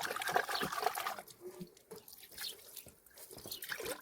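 Water splashing for about a second, then scattered drips and small ticks.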